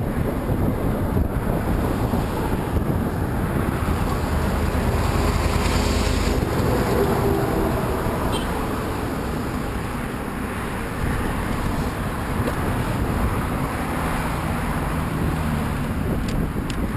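Wind buffeting the microphone of a camera on a bicycle riding into a headwind, a steady heavy rumble mixed with road and traffic noise; a passing vehicle's hum rises through it twice.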